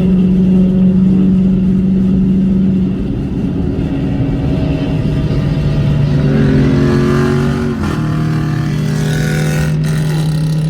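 Car engines running at a car meet: a steady engine drone that drops in pitch about three seconds in, with another engine revving up and down near the middle.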